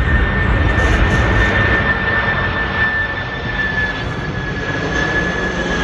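Jet airliner passing close by, its engines making a loud, steady rush with a high whine that sinks slightly in pitch.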